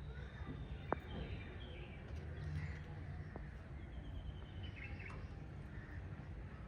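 Pet cockatiels and budgies chirping softly now and then, over a low steady hum, with a sharp click about a second in and a fainter one a little past halfway.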